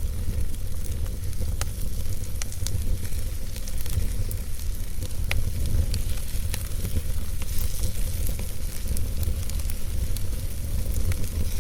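Fireplace fire crackling: scattered sharp pops and snaps, several a second, over a steady low rumble.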